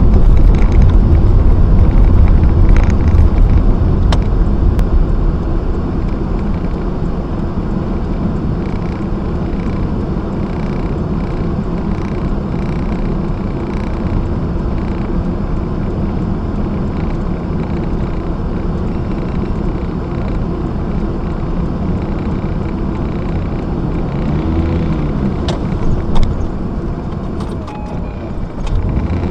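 Car engine and road noise heard from inside the cabin: louder over the first few seconds, then a steadier, lower hum as the car stands still. A rising and falling engine note comes near the end, followed by a single sharp knock.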